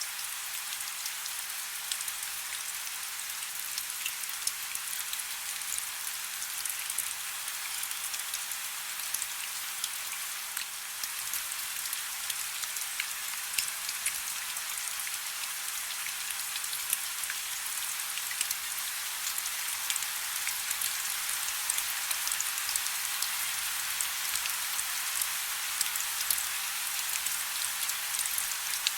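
Soft, steady rain: a constant hiss with many small drops ticking.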